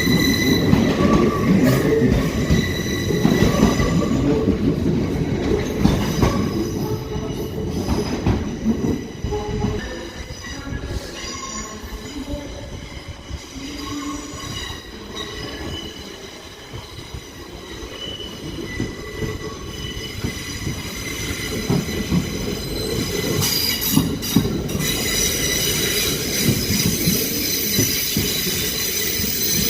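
Passenger train wheels squealing against the rails as a train moves through the station, steady high squeal tones over a rumble. Louder at first, quietest about halfway through, then building again toward the end.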